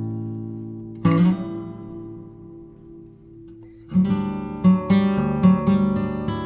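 Background music of an acoustic guitar strumming chords. A chord strummed about a second in rings out and fades, then rhythmic strumming picks up again about four seconds in.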